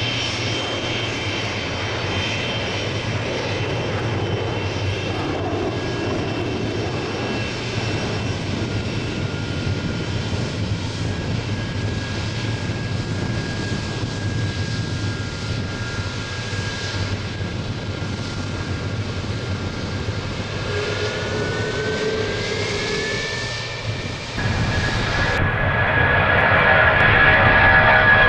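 Boeing 747-400 jet engines running with a steady whine of high tones, one tone gliding upward near the end. About 24 seconds in, the engine sound jumps up and keeps growing louder.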